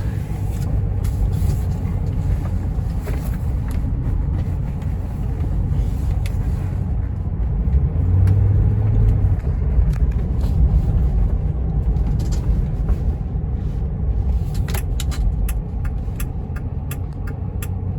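Steady low rumble of a car on the road, with a run of light ticks near the end.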